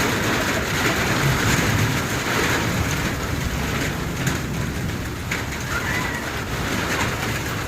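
Steady rain falling, a constant hiss of drops.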